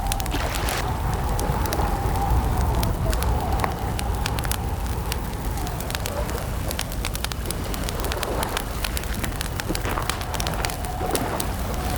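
Wood campfire crackling, with many irregular sharp pops and snaps over a steady low rumble. A thin wavering tone sits underneath throughout.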